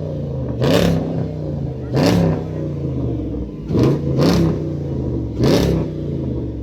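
A car engine idling and revved in short blips, about five times. Each blip rises quickly in pitch and drops back to the steady idle.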